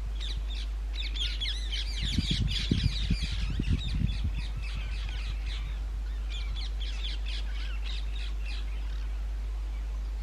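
Rose-ringed parakeets calling: rapid shrill screeches in two bouts, the first with a few low thumps mixed in about two to four seconds in.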